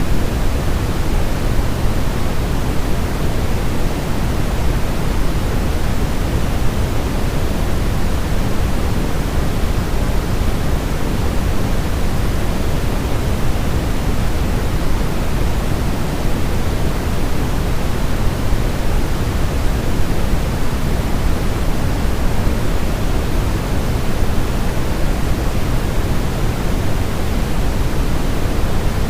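Steady white noise for lulling a baby to sleep: an even, unchanging hiss, heavier and deeper in the low end than in the highs, like pink noise.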